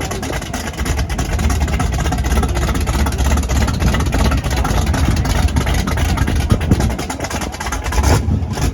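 Car engine running loudly with a deep rumble and a rough, crackling texture. It cuts off suddenly near the end.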